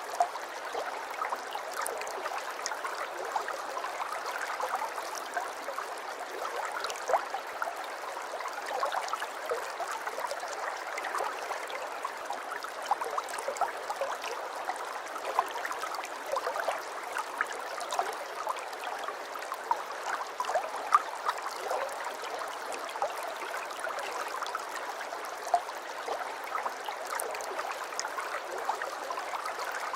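Aquarium water bubbling and trickling steadily, with a dense patter of small plops and gurgles.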